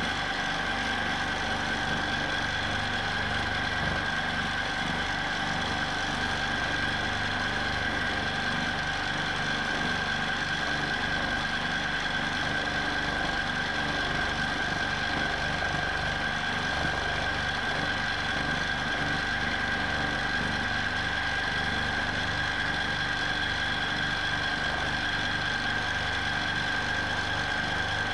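Q'nique 19 longarm quilting machine running at a steady speed in constant stitching mode, its motor whining on one fixed pitch over a rapid, even needle chatter.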